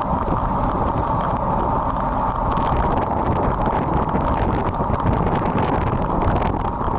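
Wind rushing over a bike-mounted Sony FDR-X3000 action camera's built-in microphone while riding in stormy wind and rain, a steady rushing noise heaviest in the low and middle range.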